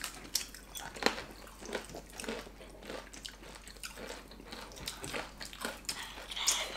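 People biting into and chewing crispy Korean fried chicken: irregular crunches and crackles of the crust, with wet chewing sounds.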